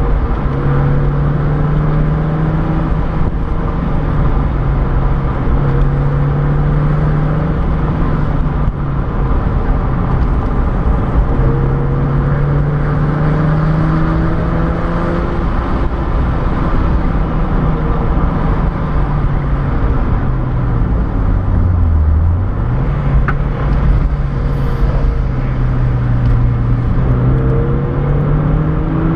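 Mazda MX-5's four-cylinder engine running as the car descends a mountain road, heard from inside the cabin over steady road and wind noise. The revs shift in small steps, drop low about three-quarters of the way through, then climb again near the end.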